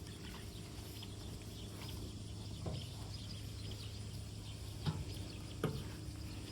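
Cattle moving close by in a pasture, with a few soft hoof steps or knocks, the clearest three spread through the middle and latter part, over a steady low hum.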